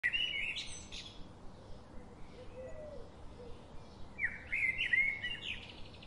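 A small songbird singing two short, quick phrases of high chirping notes, one at the start and another about four seconds in, over a faint steady outdoor hiss.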